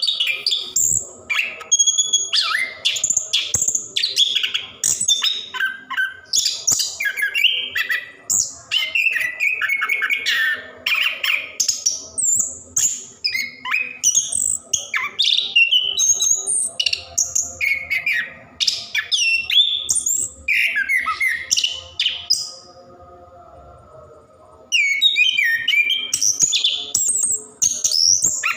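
Orange-headed thrush (anis kembang) singing a long, rapid, varied song of chirps and whistled phrases almost without break, in the nonstop 'ngerol' style. It pauses for about two seconds a little over 22 seconds in, then resumes.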